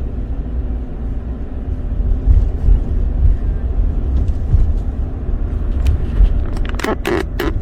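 Steady low rumble of car road and engine noise heard from inside the moving car's cabin, with a few brief sharp sounds about seven seconds in.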